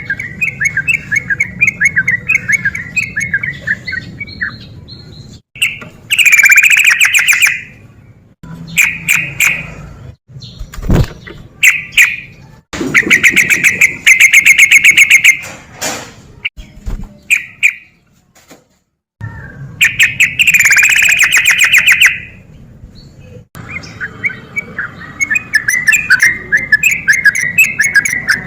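Yellow-vented bulbul (trucuk) singing loudly in fast repeated notes, with dense rattling trills a second or two long breaking through a chatter of quick chirps. The song stops abruptly several times, with short silent gaps.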